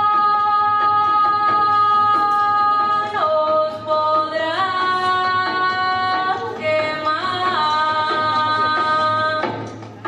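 Music: a long held sung note that steps down and back up in pitch a few times, over a light regular percussion beat, stopping abruptly near the end.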